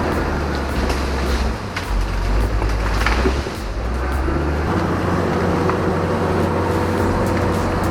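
Bulldozer's diesel engine running steadily, with scattered sharp clicks and knocks over it.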